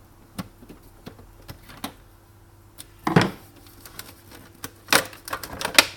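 Irregular clicks and knocks of tools and plastic parts as an espresso machine's casing is worked apart, with a louder knock and scrape about three seconds in and sharp clicks near the end.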